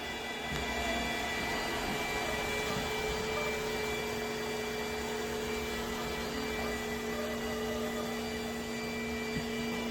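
iRobot Roomba Combo j7+ robot vacuum running, a steady motor hum and whine that holds level throughout.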